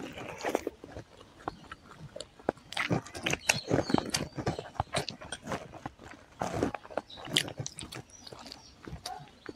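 Close-miked chewing and mouth noises of a person eating rice and boiled-egg curry by hand, with many irregular sharp clicks and smacks.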